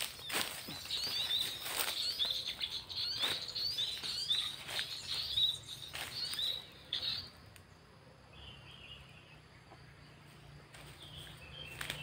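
A small bird giving a rapid series of short, high chirps, about two or three a second, together with rustling through grass and leaves; the chirping stops about seven seconds in, leaving faint rustling.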